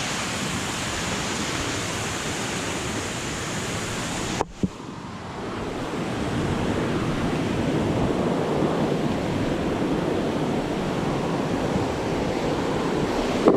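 Steady rush of water from a waterfall and river, mixed with wind on the microphone. It breaks off abruptly about four and a half seconds in, then carries on a little louder.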